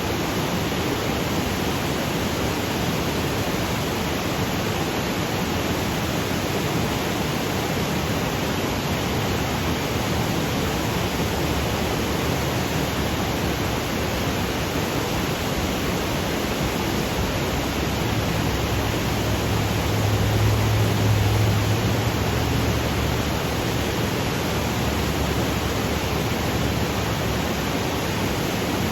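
Waterfall cascading over granite boulders: a steady, even rush of water. A low rumble swells and fades about twenty seconds in.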